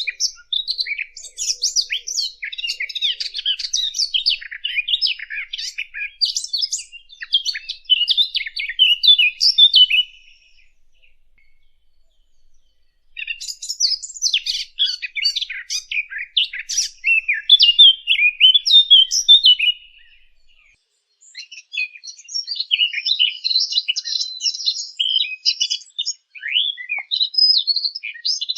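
Songbird singing in three long bouts of rapid, high twittering and warbling notes, each several seconds long, with brief pauses between them.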